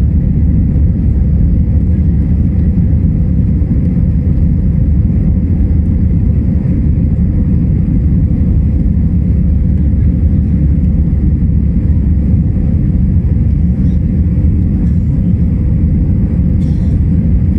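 Steady low rumble of an Airbus A321-200 heard from inside the economy cabin: engine and airflow noise holding at an even level.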